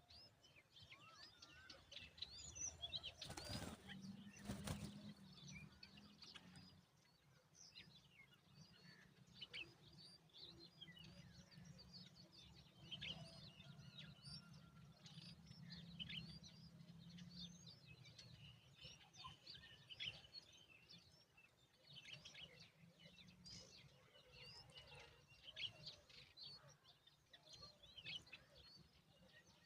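Faint, continuous chatter of many short, high bird chirps, typical of Himalayan bulbul chicks. Two short rustles come about three and a half and four and a half seconds in, over a low steady hum.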